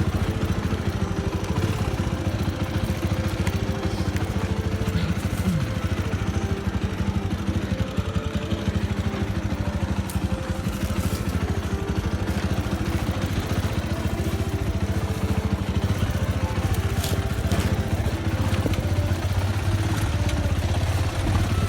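Motorcycle engine running steadily, its firing pulses even and unbroken throughout.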